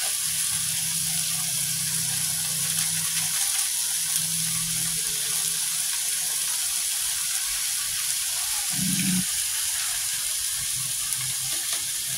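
Rice sizzling in hot oil in a frying pan as it is sautéed, a steady hiss.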